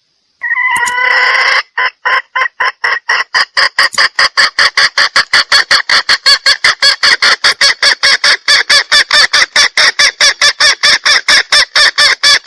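Female junglefowl lure call, played to draw in males: a short harsh cackle about half a second in, then a long run of short clucks that speed up to about six a second and stop suddenly.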